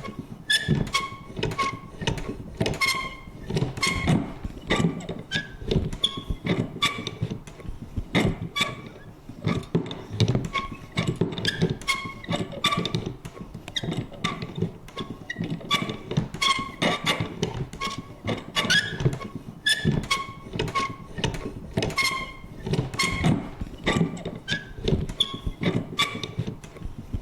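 Vintage paper punch worked over and over: a steady run of clunks, about two or three a second, many with short creaky squeaks.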